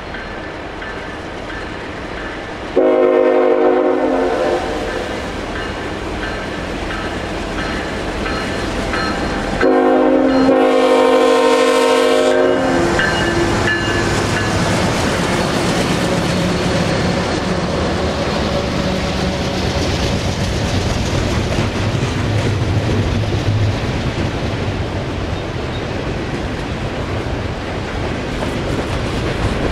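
CN freight train's locomotive air horn sounding two blasts, a short one and then a longer one, several tones at once. After them come the low rumble of the approaching diesel locomotives and the clack of wheels on rail.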